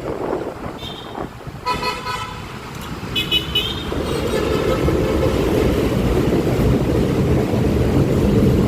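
Vehicle horns tooting in road traffic, three short toots of differing pitch in the first four seconds, followed by a steady, louder rush of wind and road noise from riding a motor scooter.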